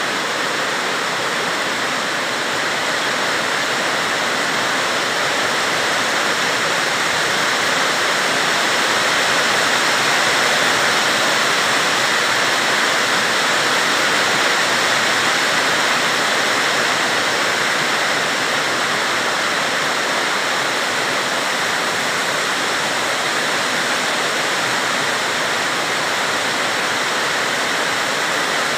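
Heavy rain pouring steadily in a dense hiss, swelling a little about a third of the way through.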